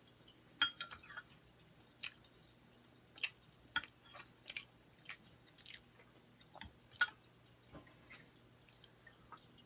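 A person chewing bread with wet mouth clicks and smacks at irregular moments, over a faint steady low hum.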